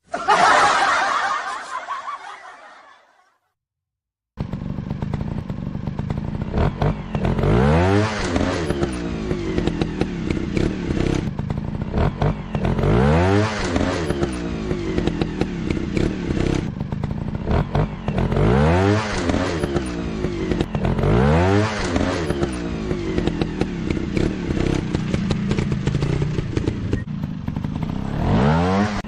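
Motorcycle engine running with repeated revs, its pitch rising in sweeps every two to three seconds. It starts abruptly about four seconds in, after an earlier sound fades out and a moment of silence.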